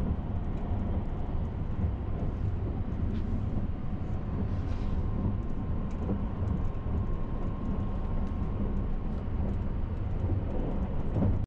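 Sunrise Express sleeper train (285 series electric train) running at speed, heard from inside the car: a steady low rumble of the wheels on the track.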